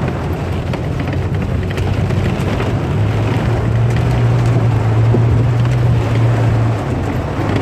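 Vehicle engine running with a steady low drone that grows louder from about three seconds in until near the end, over a continuous rushing noise.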